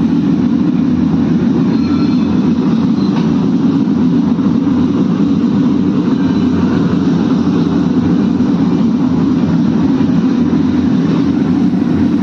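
Aluminium melting furnace running: a loud, steady, deep rushing noise that holds unchanged throughout.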